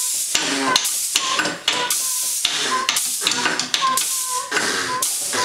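Tools played as makeshift percussion in a little band. A steady rhythm of scraping, rattling strokes, about two a second, is mixed with short ringing pings.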